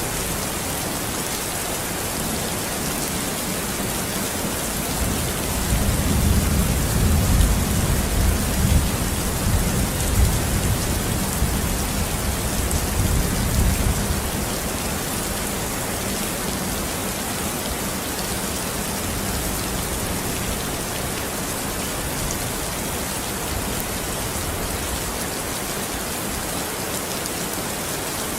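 Steady rain falling, with a long low rumble of thunder that swells about five seconds in and dies away about nine seconds later.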